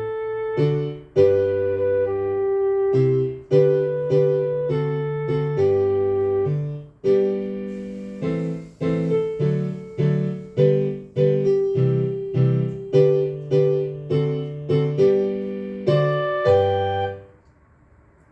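Piano playing the closing bars of a foxtrot, bass notes and chords struck in a steady beat, ending on a final chord near the end.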